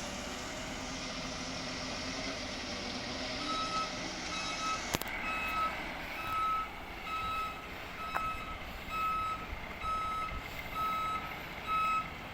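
Waste collection truck's reversing alarm beeping, a steady single-pitched beep repeating about every two-thirds of a second, starting a few seconds in, over the low running of the truck. A sharp click about halfway through.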